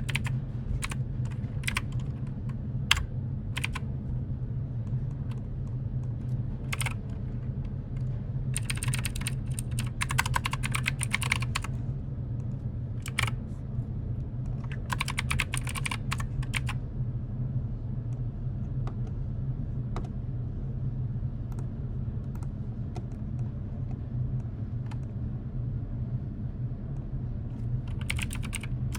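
Computer keyboard typing: scattered single keystrokes and several fast bursts of typing, over a steady low hum.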